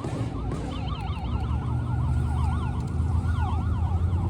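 Emergency-vehicle siren on a fast yelp, its pitch sweeping up and down about four to five times a second, over a steady low rumble.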